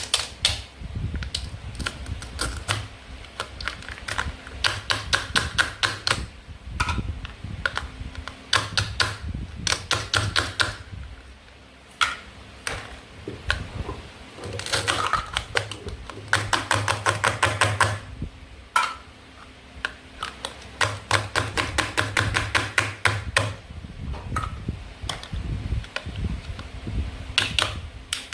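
Rapid runs of sharp clicking taps, several a second, as a knife chops toy play food against a cutting board, the runs broken by short pauses.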